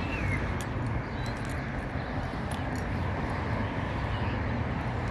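Outdoor background noise: a steady low rumble with scattered faint clicks, and a brief faint high chirp near the start.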